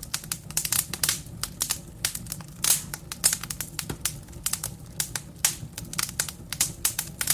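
Wood fire burning in a fireplace: dense, irregular crackles and sharp snaps of burning logs over a low, steady rumble of the flames.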